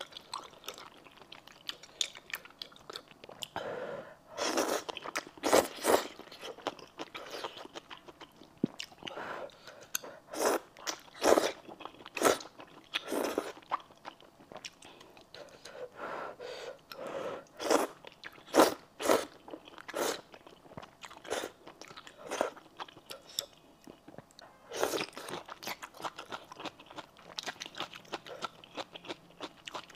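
Close-miked eating of thick noodles in spicy red sauce: wet chewing and mouth smacks in irregular bursts, with louder clusters several times as fresh mouthfuls are taken in.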